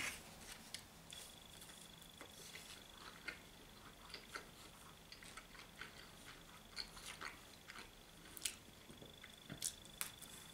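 Faint chewing and wet mouth clicks from eating a slice of mushroom and cheese pizza, with a few sharper clicks near the end as a bite is taken.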